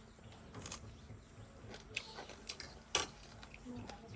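Close-miked eating sounds: scattered sharp clicks and smacks, the loudest about three seconds in.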